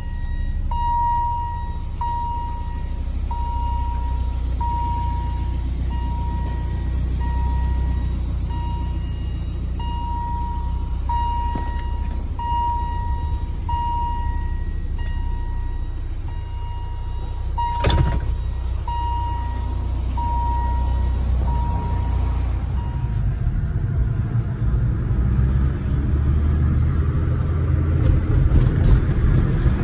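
BMW E30 M3's S14 four-cylinder engine running with a low, steady rumble while a dashboard warning chime beeps about once a second for some twenty seconds. A single sharp knock comes partway through. Near the end the engine gets louder and less even as the car drives off.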